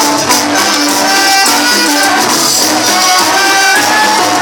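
A band playing Latin dance music, with a stepping melody over busy shaker and cymbal percussion.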